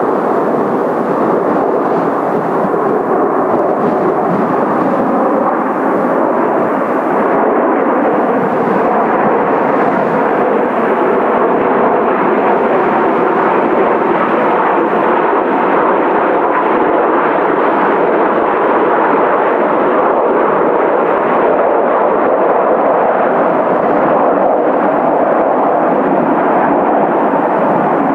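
Steady loud roar of gale-force wind buffeting the microphone, mixed with the jet noise of the Blue Impulse T-4 formation's turbofan engines flying overhead.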